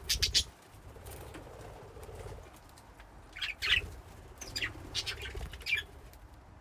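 Budgies in a colony cage chirping in short bursts, with wings fluttering among them: a cluster at the start, another a little past halfway, and several more near the end, over soft background chatter.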